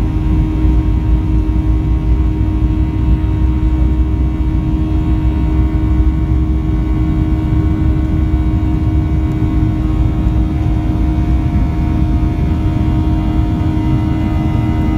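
Steady drone of a jet airliner's engines heard inside the passenger cabin: a continuous low rumble with fixed whining tones that hold their pitch.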